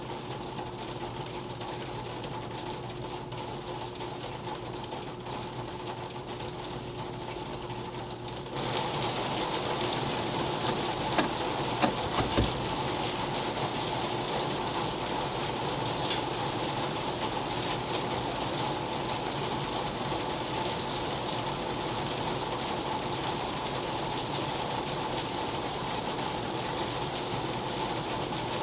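Steady rain ambience. About a third of the way in it abruptly gets louder and fuller, with a few sharp taps shortly after.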